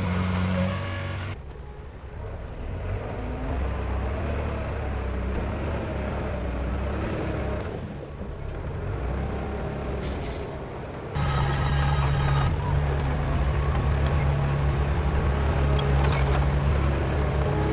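Heavy machinery diesel engines running steadily. About a second in the sound switches abruptly to a quieter, rougher engine noise, and about eleven seconds in it jumps back to a louder drone with a steady low hum.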